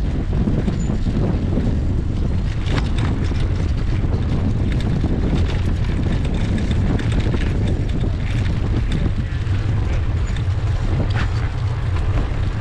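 Wind buffeting the microphone of a camera carried on a moving bicycle: a steady low rumble with light clicks and rattles now and then.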